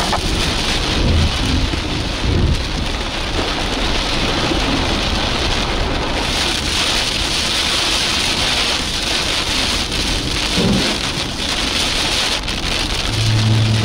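Heavy rain pelting a moving car's roof and windscreen, heard from inside the cabin as a dense, steady hiss with a low rumble underneath and a few brief thuds in the first few seconds.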